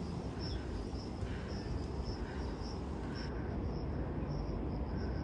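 An insect chirping in short high pulses repeated evenly, about two to three a second, over a steady low rumble.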